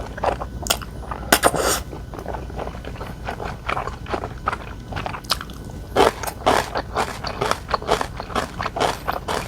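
Close-miked eating: a person biting and chewing food in a dense run of short, sharp clicks, with louder bites about a second and a half in and again about six seconds in.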